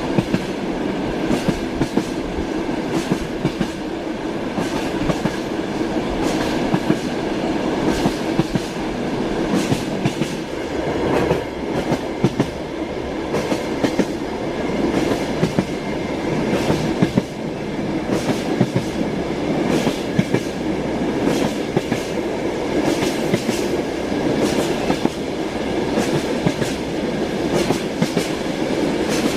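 Train wheels clacking over rail joints, heard as a steady running rumble with repeated short clicks, about one or two a second.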